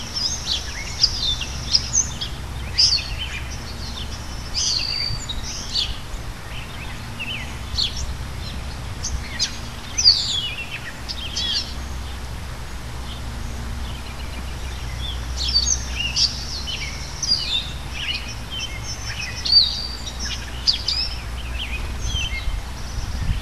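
Small backyard birds chirping and calling in quick short notes, in clusters with lulls between, over a steady low background rumble.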